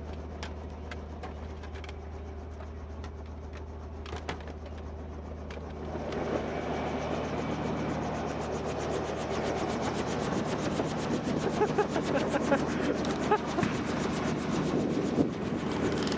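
Helicopter running on the ground with a steady low hum. About six seconds in it grows louder, with a rapid chopping from the rotor.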